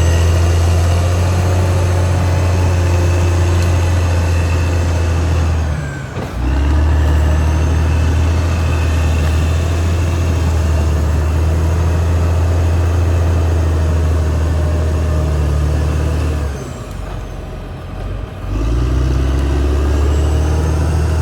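Caterpillar D6R XL bulldozer's diesel engine running with a steady deep drone. It drops off briefly about six seconds in and again for about two seconds near the end, then picks back up.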